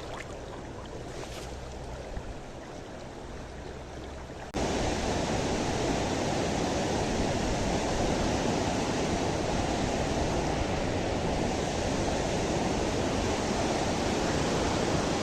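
Rushing water of a mountain river running over stones, a steady noise that jumps suddenly louder about four and a half seconds in and then holds.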